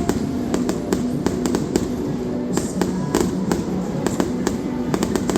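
Fireworks going off in a rapid run of pops and bangs, one after another, with music playing underneath.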